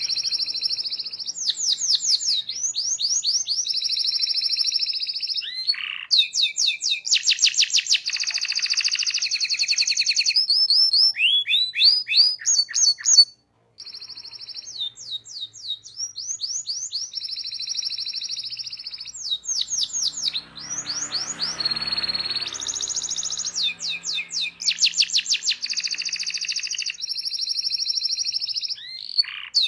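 Domestic canary singing a long, continuous song of fast trills and rolls, each phrase a run of rapidly repeated notes that changes every second or two. The song cuts out for a moment about halfway through.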